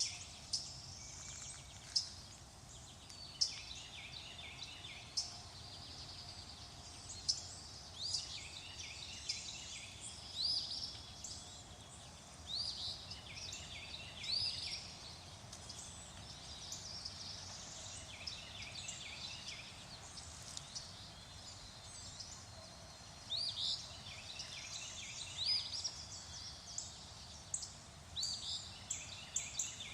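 Songbirds singing and chirping: many short, quick phrases, some overlapping, repeating throughout over a faint steady background hiss.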